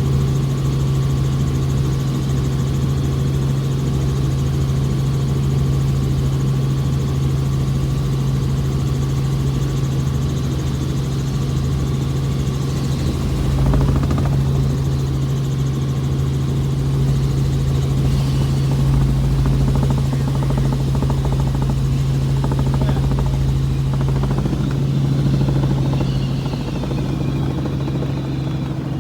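Helicopter in flight: a loud, steady drone with a strong low hum that holds its pitch throughout.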